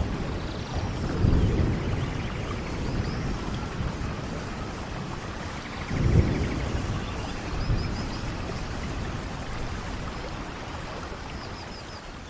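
Steady rain with low thunder rumbles, one about a second in and a stronger one around six seconds, the whole ambience slowly fading out near the end.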